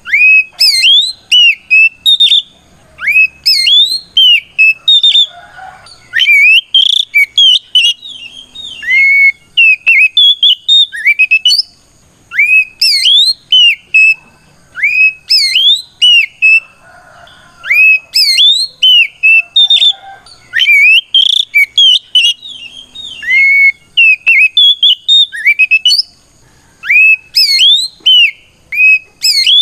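Oriental magpie-robin singing loud, clear whistled phrases of notes that sweep up and down, broken by short pauses. It is the full-voiced challenge song that calls out a rival.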